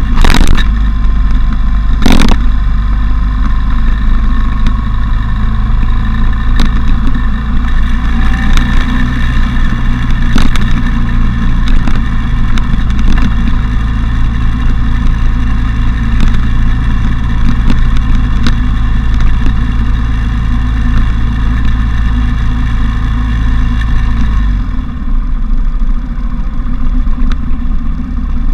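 Motorcycle engine running under way, with heavy wind noise on the action camera's microphone, the bike's windshield removed. Two sharp knocks come in the first couple of seconds, and the low engine rumble drops about 24 seconds in.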